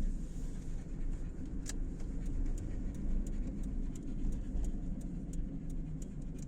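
A car driving, with a steady low engine and road rumble. Faint light ticks repeat about three times a second.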